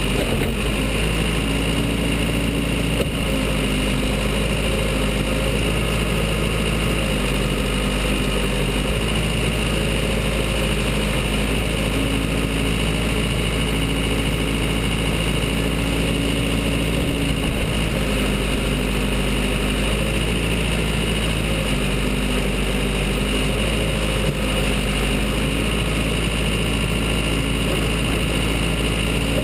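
Case 580 Super L backhoe's diesel engine running steadily, its pitch stepping slightly up and down every few seconds.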